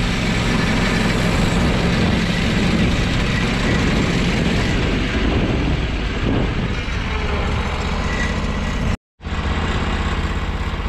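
Engine of a Norwood HD36 portable band sawmill running steadily under load as the band blade is fed through an oak log. The sound cuts out for an instant about nine seconds in, then the engine runs on steadily.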